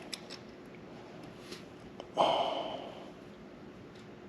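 A short, forceful breath out through the nose, like a snort, about two seconds in, fading over half a second or so. A few faint ticks of small parts being handled come just before it.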